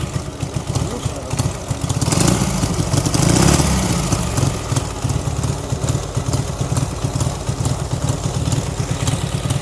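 Dnepr flat-twin engine on a homemade Ural trike idling while warming up after a cold start, with fast, even firing pulses. It swells louder for a couple of seconds about two seconds in, then settles back to idle.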